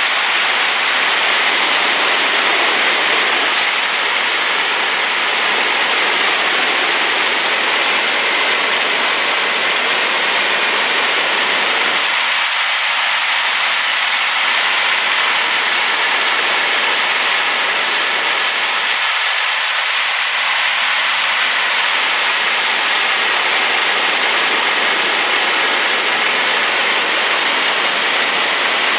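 Waterfall crashing steadily, swollen and muddy after rain: a constant loud rush of water without a break.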